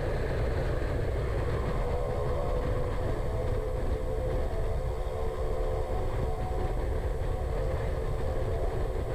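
Cessna 208 Caravan amphibian's Pratt & Whitney PT6A turboprop running steadily at taxi power, heard from inside the cockpit as a constant low rumble with a steady tone over it.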